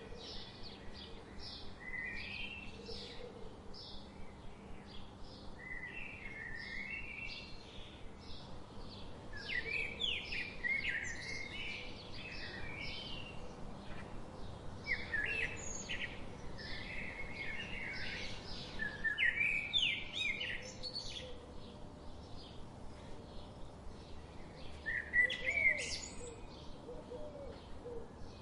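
Several birds singing: a steady run of short, high chirps, about two or three a second, with louder warbling phrases breaking in now and then.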